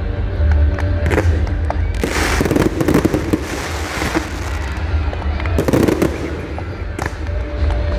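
Fireworks crackling and popping in two bursts, a longer one about two seconds in and a shorter one near the end, over music with a heavy bass beat.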